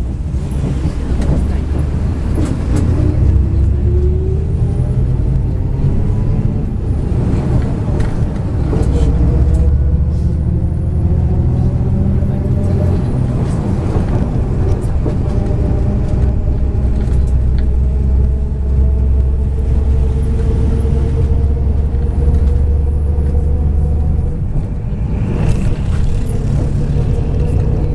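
MAZ 103 city bus heard from inside the cabin while driving: the engine's pitch rises twice as it accelerates through the gears, then holds nearly steady at cruising speed over a constant deep road rumble.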